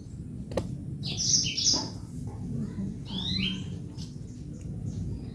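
Birds chirping: short high chirps in two clusters, about a second in and again about three seconds in.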